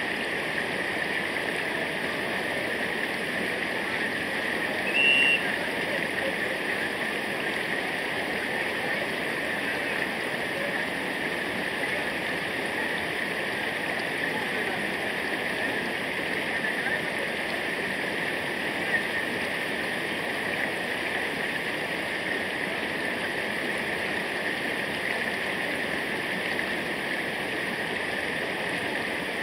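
Steady rush of flowing river water, with one brief high-pitched sound about five seconds in.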